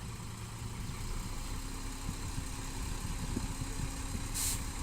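Heavy machinery's diesel engine running steadily at low revs, with a short hiss near the end.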